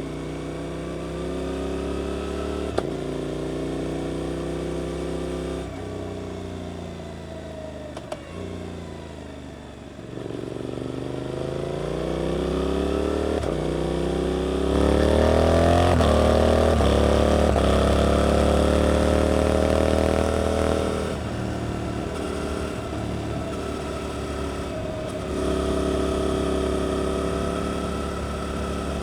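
Suzuki GSX-8S parallel-twin engine through an Arrow aftermarket exhaust, ridden under way. The engine note holds steady, falls away as the rider eases off about a third of the way in, then climbs hard through the gears to its loudest and settles, with another rise near the end.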